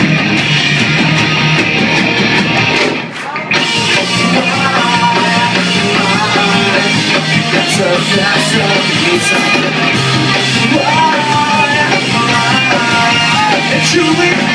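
Rock band playing with electric guitar, the music dropping out briefly about three seconds in before coming back in full.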